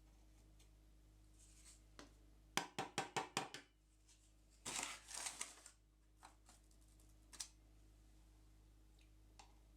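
Pre-ground coffee being spooned into an espresso machine's two-cup filter basket: a quick run of about eight light taps, then a short rustling scrape about two seconds later, and a few single clicks.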